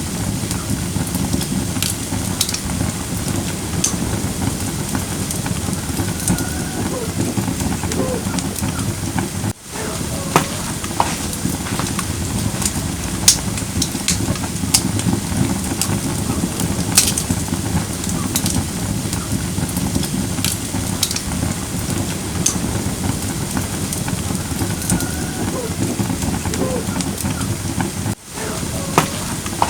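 Firewood burning in a campfire brazier: a steady crackling hiss with scattered sharp pops from the burning wood.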